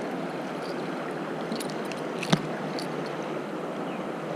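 River water rushing steadily, with one sharp click a little past halfway through.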